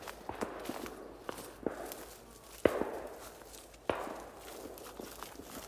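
Two shotgun shots about a second and a quarter apart, past the middle, each followed by a short rolling echo. Between them come light crunching footsteps through brush.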